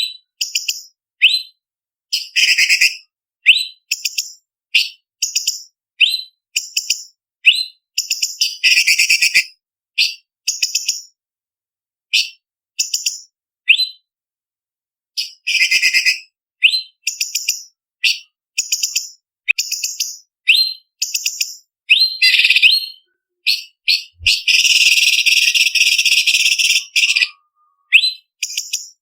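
Orange-bellied leafbird (cucak cungkok) singing: short, sharp, high-pitched whistled phrases, about one a second, with a brief pause near the middle. About 24 seconds in comes a harsher chattering trill lasting nearly three seconds.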